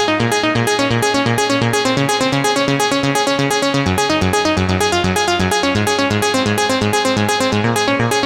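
Oberheim OB-6 analog polyphonic synthesizer playing a fast sequenced arpeggio of evenly repeating pitched notes, about eight a second, over a changing bass line.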